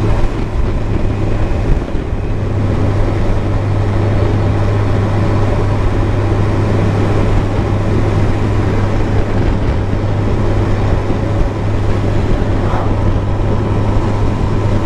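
Motorcycle engine holding a steady highway cruise, a constant low drone under rushing wind on the helmet-mounted camera's microphone.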